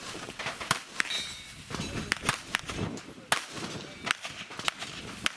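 Handgun shots on a shooting range: sharp cracks at irregular intervals, sometimes two or three in quick succession.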